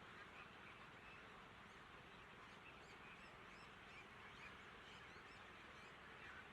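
Faint high chirping of birds, many short calls, over a steady background hiss.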